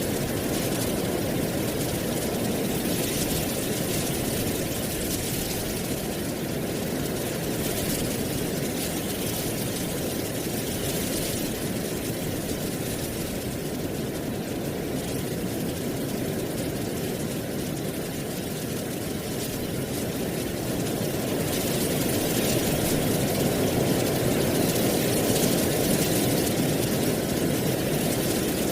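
Wind blowing through dry autumn leaves: a steady rustling hiss over a low rumble, swelling louder in a gust near the end.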